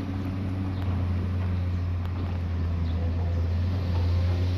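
Komatsu excavator's diesel engine running steadily, a constant low drone with no change in speed.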